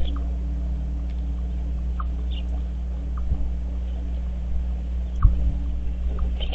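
Short, high bird chirps here and there over a steady low rumble, with a single knock about five seconds in.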